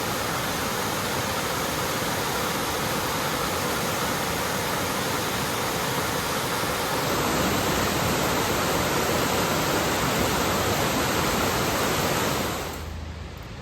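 Small waterfall rushing steadily: an even roar of falling water that gets a little louder about halfway through and drops away suddenly near the end.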